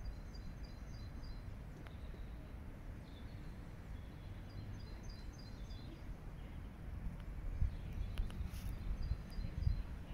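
A small songbird chirping quick runs of short high notes three times, over a faint, steady low rumble of outdoor background noise.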